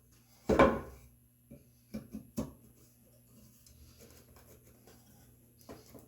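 Red oak workpieces knocking together once loudly, then several lighter wooden taps, followed by faint rubbing as a slat is test-fitted into its angled mortise.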